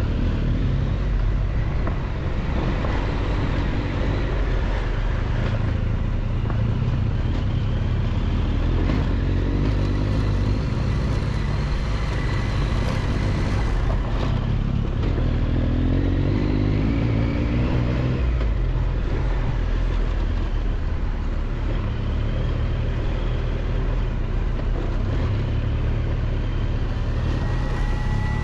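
Triumph Tiger 1200 XCX's three-cylinder engine running steadily as the motorcycle rides over a dirt road, with wind noise; the engine note wavers up and down as the throttle changes. A steady high tone comes in near the end.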